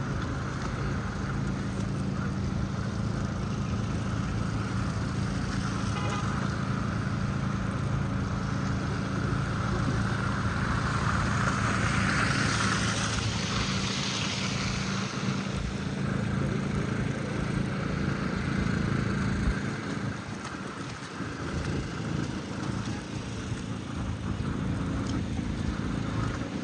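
Street traffic: a steady low engine hum, with a vehicle passing and growing louder about halfway through before fading.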